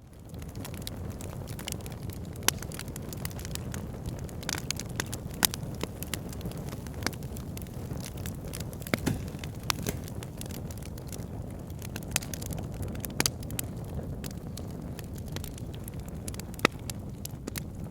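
Backyard fire pit fire crackling and popping over a steady low rumble, with irregular sharp pops, a few louder ones standing out every few seconds.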